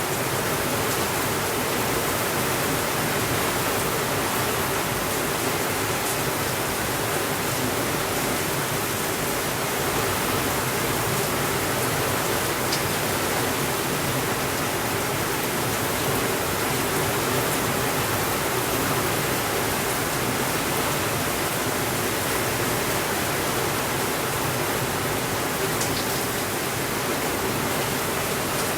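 Steady heavy rain falling on a window: an even hiss with no thunder, with a few faint clicks here and there.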